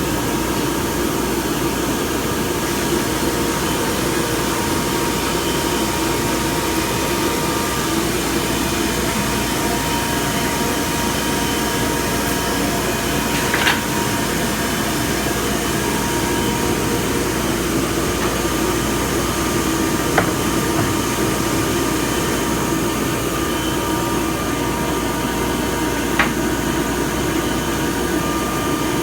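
Weeke BP12 CNC router running steadily, a constant mechanical hum with faint whining tones. Three sharp clicks or knocks come about half a minute apart, the first roughly halfway through.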